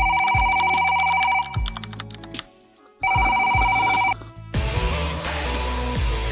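An electronic ringing tone, like a telephone ringer, in two bursts of a second or so with a short pause between, followed by music.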